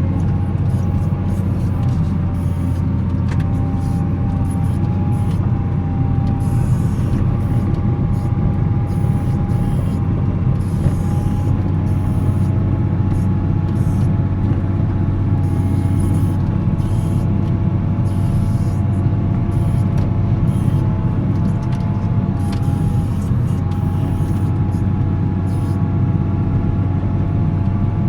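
Volvo L70C wheel loader's diesel engine running steadily while plowing snow, a constant deep drone with faint whining tones over it.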